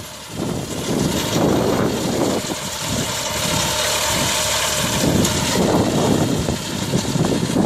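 Tractor engine running, with a steady whine that comes in about two and a half seconds in and stops about three seconds later.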